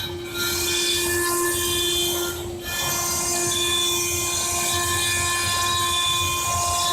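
CNC stone machine running, a steady whine made of several held tones over a loud high hiss, with two short dips, one right at the start and one about two and a half seconds in.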